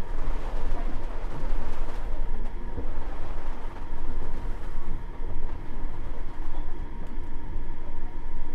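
Running noise heard inside a Nippori-Toneri Liner 330-series car, a rubber-tyred automated guideway train, travelling along the line. The rumble is continuous, with a steady tone through it.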